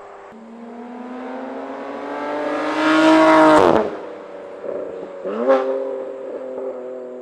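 BMW F8x M3/M4's S55 twin-turbo inline-six through an equal-length titanium valved exhaust with the valves open, accelerating past in a flyby. The engine note climbs in pitch and grows loud, then drops off abruptly a little before four seconds in. A short sharp rev blip follows about a second and a half later, and the engine settles to a steadier, quieter note.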